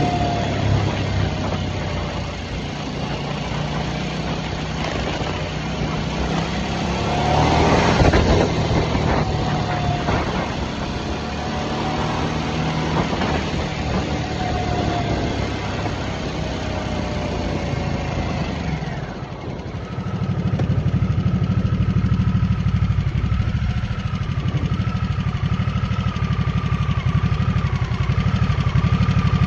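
2023 Harley-Davidson Nightster's Revolution Max V-twin engine running while riding, under wind and road noise. About two-thirds of the way in the riding noise falls away and the engine settles into a steady idle.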